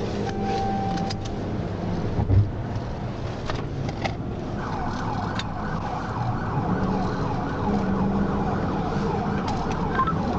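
Police car siren switched on about four and a half seconds in, sweeping rapidly up and down over the cruiser's engine and road noise as it sets off in pursuit. A brief thump about two seconds in.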